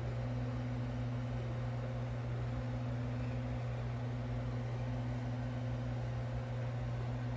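3D printer running, a steady low hum with its stepper motors whining on and off in stretches of about a second as the print head lays down the base layer.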